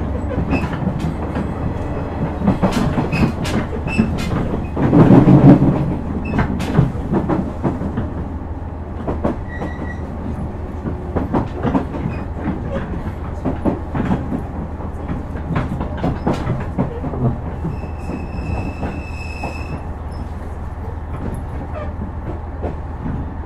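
Interior running sound of a KiHa 126 diesel railcar: a steady low hum under irregular clicks of the wheels over rail joints, with a loud rumbling surge about five seconds in. A brief high-pitched squeal comes near the end.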